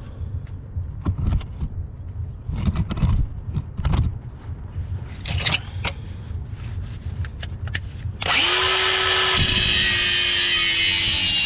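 Scattered knocks and handling noise, then about eight seconds in a DeWalt angle grinder starts up and cuts into the rusted steel exhaust pipe. It makes a loud hissing grind with a steady motor whine that sags slightly as the cut loads it.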